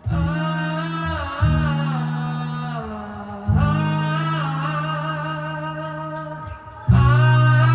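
Acoustic live music: four sustained low chords struck one after another, each fading slowly, under voices singing a wordless melody.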